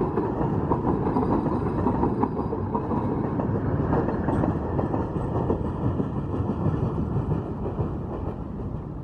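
Bogie tank wagons of a freight train rolling past on the rails, a steady rumble of wheels on track with occasional sharp clicks, growing quieter toward the end as the train moves away.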